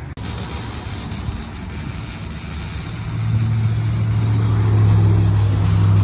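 A vehicle engine running in a garage bay over general shop noise, with a steady low hum that swells up about three seconds in and holds.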